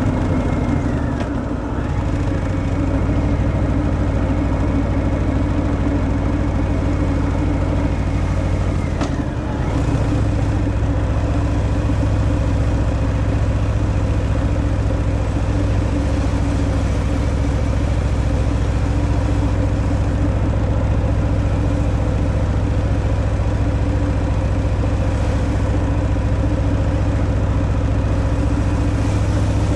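Stock Harley-Davidson Fat Boy V-twin engine running steadily under way with its deep stock-exhaust rumble. Twice, about a second in and about nine seconds in, the engine note drops and dips briefly before settling again.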